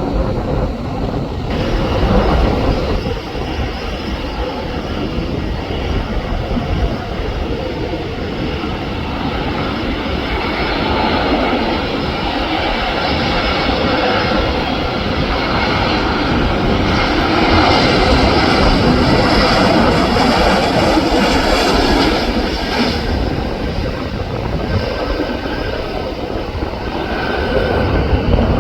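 Airbus A321neo airliner's jet engines running as the aircraft passes. The sound grows loudest past the middle, with a whining tone over the rush, while strong gusty wind buffets the microphone.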